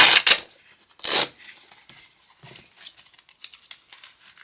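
Velcro hook-and-loop strap on a leather motorcycle glove being ripped, two loud rips, the second about a second in, followed by faint rustling and crinkling as the glove is handled.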